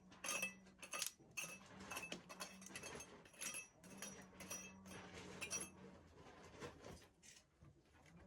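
A metal hand tool scraping and clinking against a stone wall, raking loose mortar out of the joints in irregular strokes, each with a short metallic ring. A faint steady low hum runs underneath and stops about seven seconds in.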